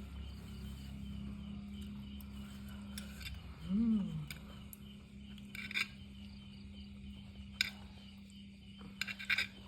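Eating utensils clicking sharply against a bowl a few times, near six seconds, seven and a half seconds and in a quick cluster near the end, with a brief hummed rising-and-falling "mm" about four seconds in, over a steady low hum.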